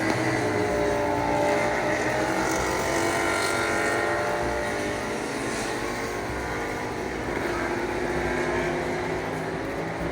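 Several racing motorcycles at high revs, engines overlapping, their pitches rising and falling as they pass.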